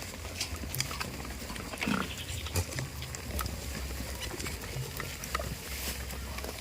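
Farm goats: one short low call about two seconds in, among many small clicks and knocks, over a low steady rumble.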